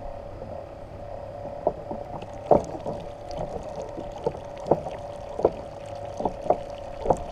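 Kayak paddle strokes in the water: short splashes at uneven spacing, about one a second, starting a couple of seconds in, over a faint steady hum.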